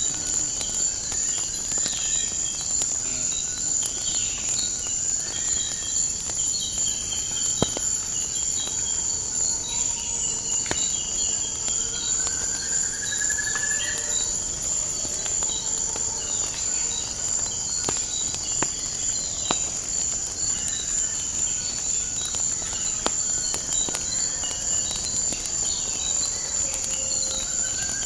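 Steady high-pitched chorus of crickets, with a few rising bird calls and scattered sharp crackles of a wood fire.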